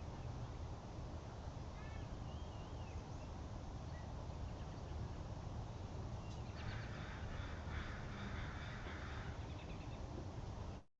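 Crows cawing: three harsh calls in a row about two-thirds of the way through, after a few faint small-bird chirps, over a steady low outdoor rumble.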